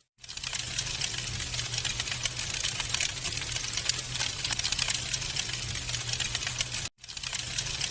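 Wood fire burning in a fireplace, crackling with a dense run of quick pops and snaps over a steady hiss and low rumble. The sound fades in just after the start and drops out for a moment about seven seconds in before coming back.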